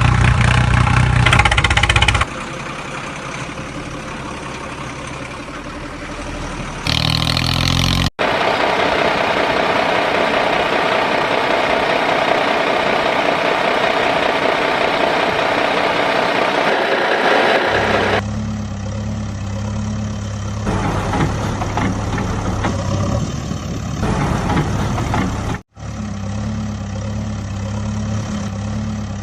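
Edited-in heavy engine sounds: stretches of engine running that switch abruptly several times, with two brief dropouts, one about a quarter of the way through and one near the end. From about two-thirds of the way in, a steady low engine idle.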